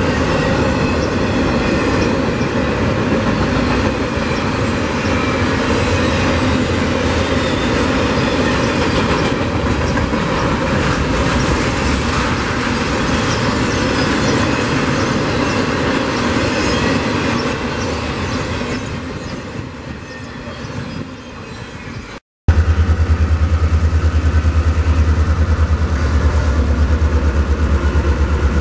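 Freight train's intermodal cars rolling past, wheels running on the rails, the noise sinking as the end of the cut of cars goes by. About 22 seconds in it gives way to a louder, steady low engine drone as two GE diesel-electric locomotives, an ES40DC and an AC4400CW, pass close by.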